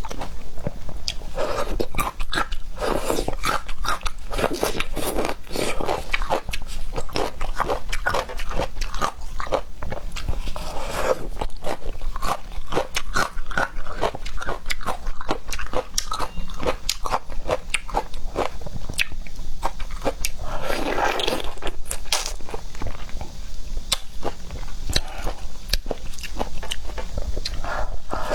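A person chewing and biting seafood close to the microphone, with a steady run of sharp wet clicks and smacks.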